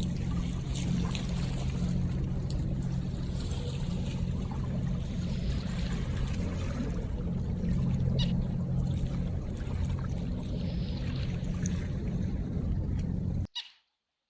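River water trickling and splashing with scattered small drips and ticks over a steady low hum. It cuts off abruptly to silence near the end.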